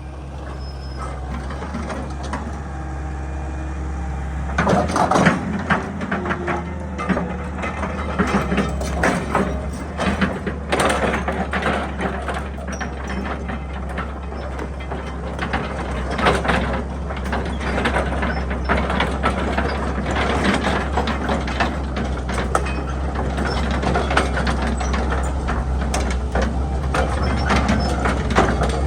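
Excavator's diesel engine running steadily, with irregular clanks, knocks and scraping starting about five seconds in as the bucket works into rock and earth.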